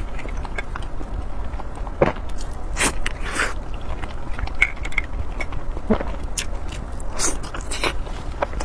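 Close-miked eating sounds: a person biting and chewing food, with irregular sharp clicks and smacks. A steady low hum runs underneath.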